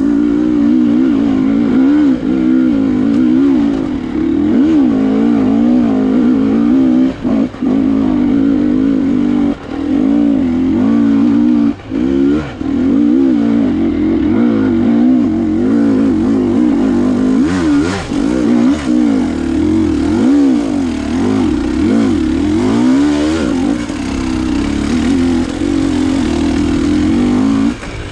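Enduro motorcycle engine under way, its revs rising and falling continually as the throttle is worked, with a few brief drops where the throttle is shut off.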